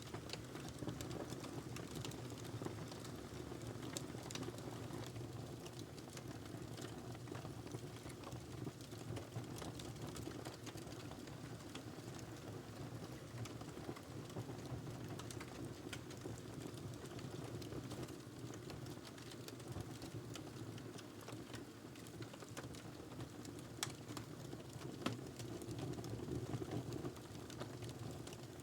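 Wood fire crackling in a fireplace: scattered sharp snaps and pops over a steady low rumble of the flames, with a couple of louder pops near the end.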